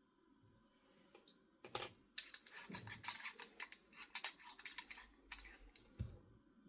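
Kitchenware being handled: a quick run of clinks and clatters of small hard objects, starting about two seconds in, with a dull thump near the end.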